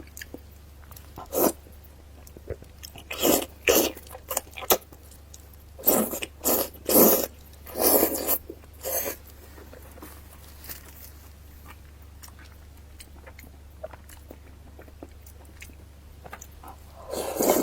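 Close-miked eating sounds: a person biting and chewing crunchy food in a run of short, loud bites over the first half, then quieter, with another bite near the end. A steady low hum runs underneath.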